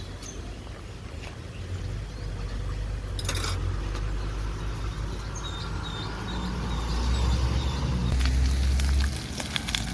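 Low wind rumble on the microphone over a campfire, with chicken frying in hot oil in a pot, its crackling and popping thickening near the end. A brief hiss about three seconds in.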